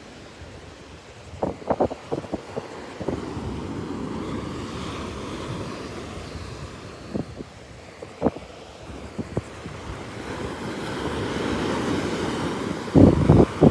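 Ocean surf washing on a beach, swelling about two-thirds of the way through, with wind buffeting the microphone. A few short knocks come in the first part, and a loud gust of wind noise hits near the end.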